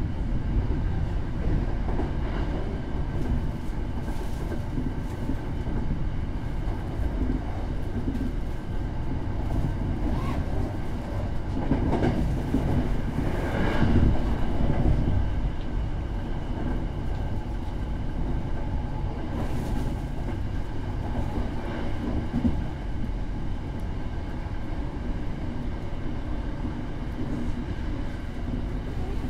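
Running noise of a Hankyu Takarazuka Line express train at speed, heard from inside the passenger car: a steady rumble of wheels on rail with a faint steady high whine, swelling louder about halfway through.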